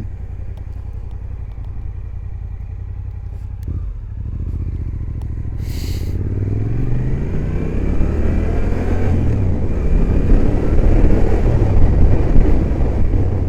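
Suzuki GSX-8S parallel-twin engine heard through a helmet-mounted microphone. It runs steadily for a few seconds, then the bike pulls away about four seconds in, its revs rising and falling repeatedly as it gathers speed, with road and wind noise building.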